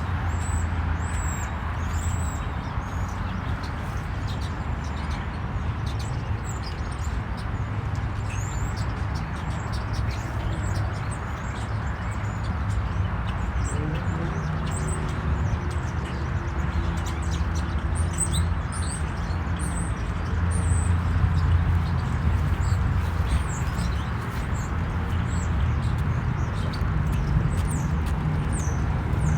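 Small birds chirping in short, high notes scattered throughout, over a steady low rumble.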